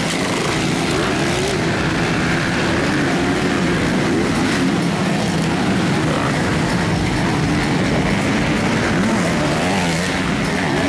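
Several motocross bike engines racing, their pitches rising and falling as the riders work the throttle, overlapping in a continuous mix.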